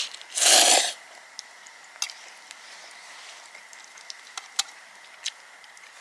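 A short, noisy slurp of pasta about half a second in, followed by scattered light clicks.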